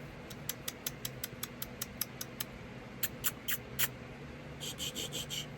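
Quick, light mouth clicks and smacks, about five a second, then a few louder ones and a short run of high squeaky pulses near the end.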